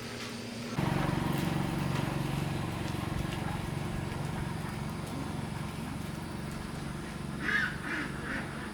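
An engine starts up about a second in and keeps running steadily with a low hum, easing slightly over time; a few short higher-pitched calls or cries come near the end.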